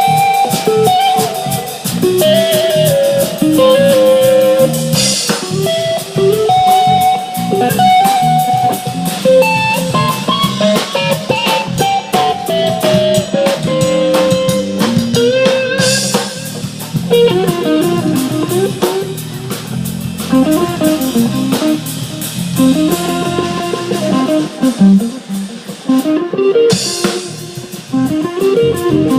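Live rock band playing an instrumental jam: electric guitar improvising winding lead lines over a drum kit, with cymbal crashes about three times.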